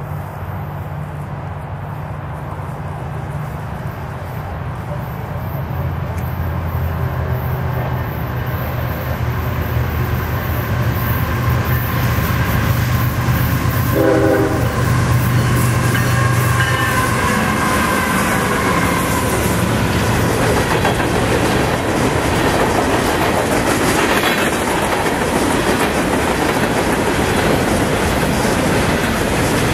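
Diesel freight train approaching, its locomotive engines a low drone that grows steadily louder, with the horn sounding briefly about halfway through. In the second half the locomotives pass and a string of covered hopper cars rolls by close up in a dense, steady rumble.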